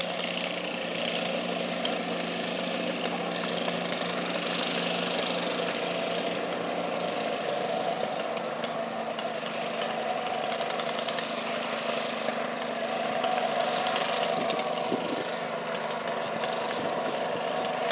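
Garden tractor engine running at a steady speed, its tone shifting slightly partway through.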